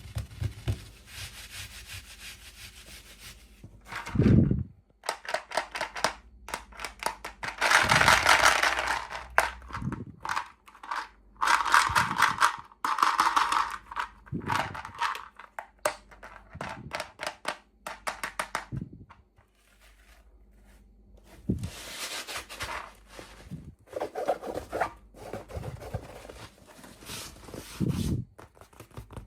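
Packaging being handled and torn open by hand, with repeated rustling, rubbing and tearing scrapes and a few dull knocks, such as a small toy or box being set down.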